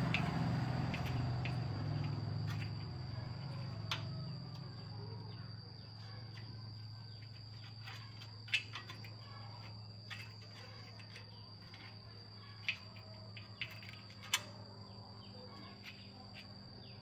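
A steady, high, unbroken insect trill, with a low hum that fades away over the first several seconds and a few sharp clicks now and then.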